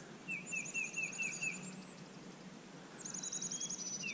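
Songbirds singing: a fast high trill together with a slower run of about seven short slurred notes, heard twice, about three seconds apart.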